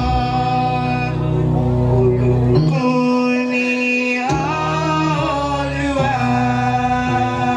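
Church music: singing led by a male voice over instrumental accompaniment, with long held notes.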